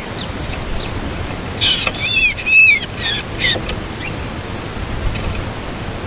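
Small bird calling in a quick series of high chirps, some bending up and down in pitch, for about two seconds, over a steady hiss.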